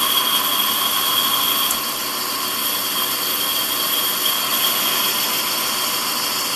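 Warco metal lathe running steadily through a boring cut on a 30 mm bore, its motor and gearing giving a constant whine over an even mechanical hiss.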